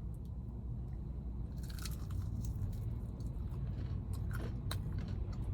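Chewing and biting into a crispy fried chicken wing, with short crunches scattered through, a cluster of them about two seconds in. A steady low hum runs underneath.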